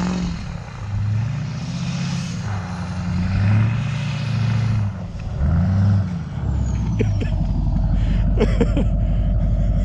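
Truck engine revving up and down several times as it pushes through deep snow, then settling into a steadier low run, with a few short squeaks near the end.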